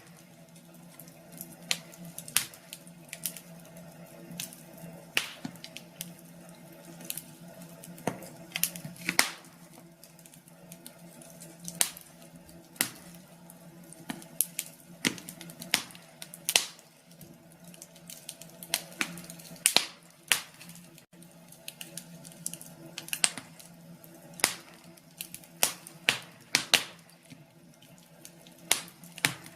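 Wood fire crackling, with irregular sharp pops and snaps from the burning logs over a steady low hum.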